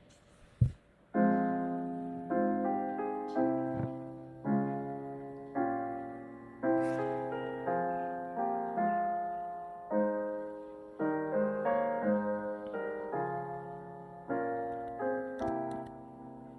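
Slow solo piano music: chords struck about once a second, each left to ring and fade. A short low thump comes just before the music starts.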